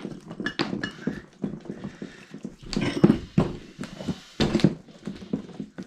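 Irregular metal knocks and clunks as the piston is worked out of an old small engine's rusty cylinder, where it is sticking hard. The knocks come several a second, with louder clusters about three seconds in and again near the end.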